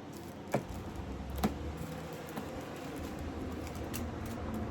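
A few light knocks and taps from items being handled and pressed into a gift basket box, over a steady low hum.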